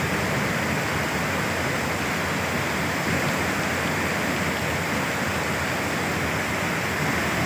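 Floodwater rushing past in a steady, even torrent.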